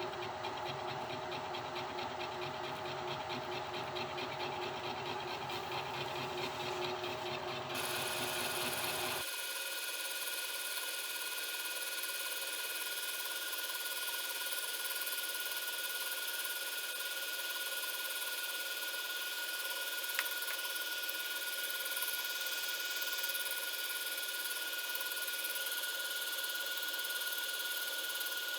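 Spindle of a home-built CNC milling machine running with a steady high whine. About eight to nine seconds in, the sound changes abruptly: the deeper tones drop out and only the whine and a hiss remain.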